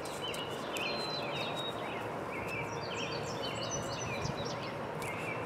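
Birds chirping in short, repeated calls over a steady background hiss of ambient noise.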